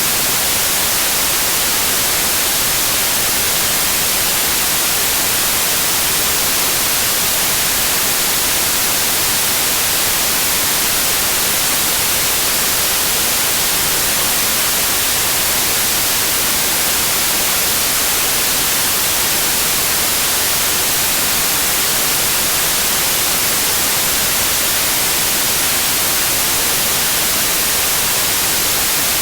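Steady, unchanging white noise: an even hiss, brightest in the treble.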